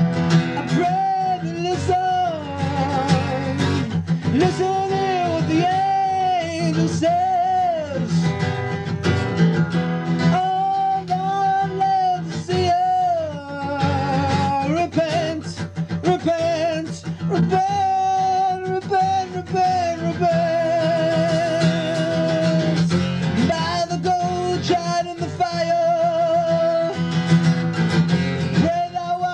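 Acoustic song: a voice sings long held notes with vibrato over acoustic guitar.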